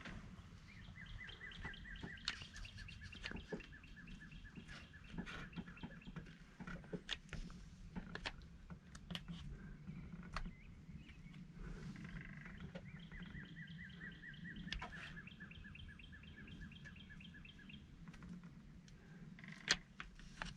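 A songbird singing two long, rapid trills of quick repeated high notes, each about five seconds long, the second about twelve seconds after the first. Scattered sharp clicks and rustles come between them, with the loudest click near the end.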